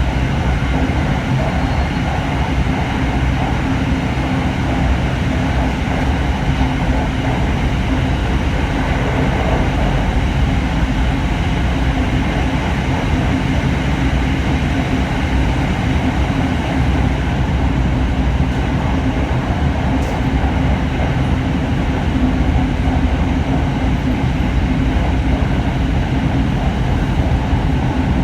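Hitachi-built SRT Red Line electric commuter train running, heard from inside the carriage: an even rumble of the moving train with a steady low hum.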